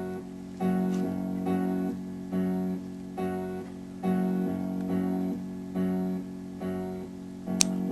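Background music made on a computer, a guitar-like plucked chord repeated about once a second in an even rhythm. A single sharp click sounds near the end.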